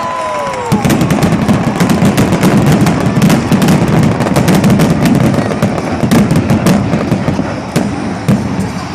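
Loud, continuous crackling and popping, with many sharp bangs a second. Two falling whistle-like tones come in the first second.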